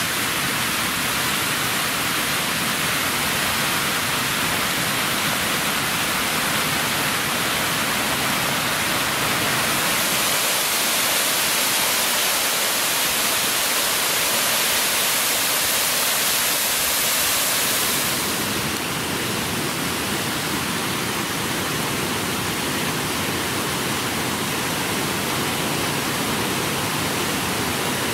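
Steady rushing of water pouring down a jungle waterfall cascade. Its hiss brightens about ten seconds in and eases again near eighteen seconds.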